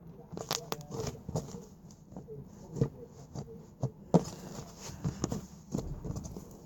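Slime being squished and worked by hand, giving irregular wet clicks and pops, with a louder snap about four seconds in.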